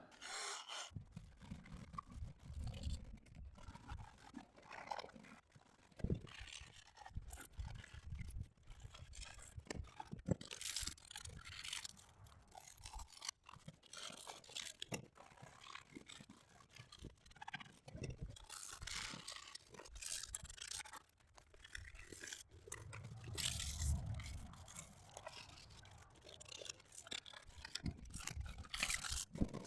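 Faint, irregular scraping and rubbing strokes worked by hand on the surface of an aluminum truck wheel.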